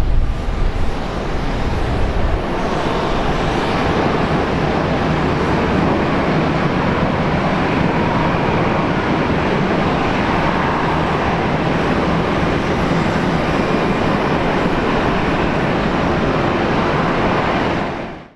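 Condor Airbus A320-214 with CFM56 jet engines landing: a heavy low rumble for the first couple of seconds, then a steady, even jet noise.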